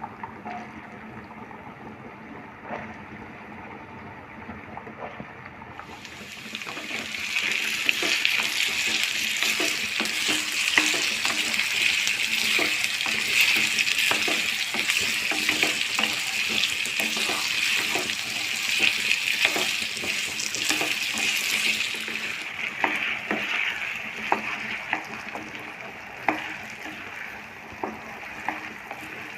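Potato pieces frying in hot oil in a pan with tempered cumin and mustard seeds: a loud sizzle that starts about six seconds in and eases off after about twenty-two seconds, with repeated clicks and scrapes of a spatula stirring them.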